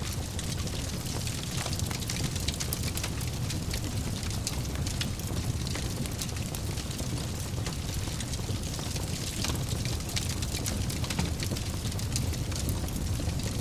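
Wood fire crackling in a fireplace: a steady low rumble of the flames with frequent small pops and snaps.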